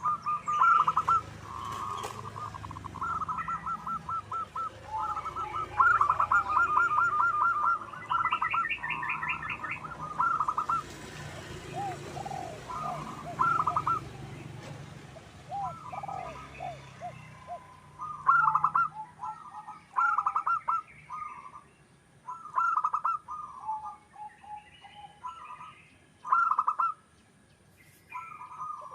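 Zebra doves cooing: repeated bursts of rapid, stuttering coo notes, with shorter falling coos in between and fainter chirps of small birds behind them.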